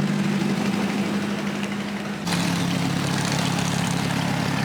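Car engine running steadily at low revs, with an abrupt change in its tone about halfway through.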